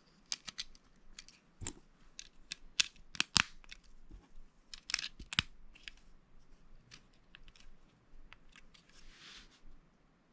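Plastic Lego bricks being handled and pressed together: irregular sharp clicks and snaps, the loudest a little over three seconds in, with a short soft rustle near the end.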